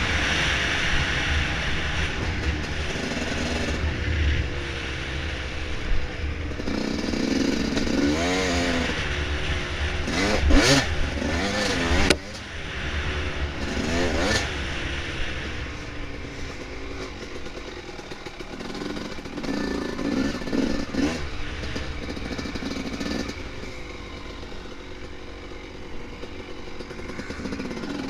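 Dirt bike engine revving up and down as it rides a trail, with a few sharp knocks and rattles partway through. About twelve seconds in the engine note drops and it runs more quietly afterwards, still rising and falling.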